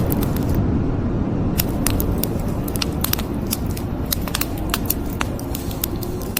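Wood fire crackling in a fireplace, with many irregular sharp snaps and pops over a steady low rumble.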